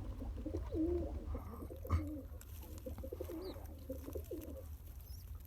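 Domestic pigeon cooing in low, wavering calls that stop about four and a half seconds in, with a single click about two seconds in and a steady low rumble underneath.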